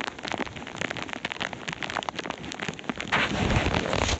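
Heavy rain striking close to a body-worn camera and raincoat: a dense run of sharp drop hits over a steady hiss. About three seconds in, a louder, fuller rushing noise comes in.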